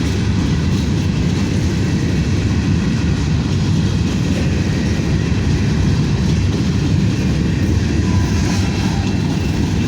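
Freight train cars, mostly grain hoppers, rolling steadily past at close range: a continuous low rumble of wheels on rails.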